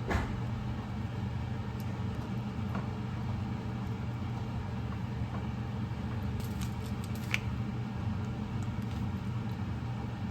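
A steady low hum with a few light clicks and taps, the sharpest about seven seconds in.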